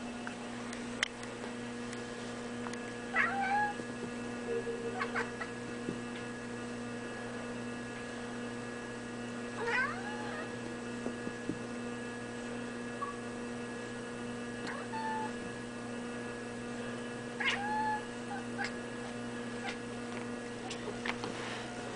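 Kitten giving about five short meows, each rising then dropping in pitch, spaced several seconds apart, over a steady electrical hum.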